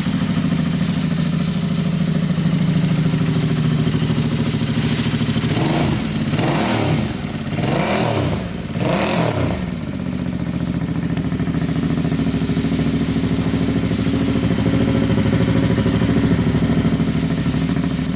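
Royal Enfield Interceptor 650's parallel-twin engine idling steadily, revved with a few quick throttle blips about six to ten seconds in, then settling back to idle.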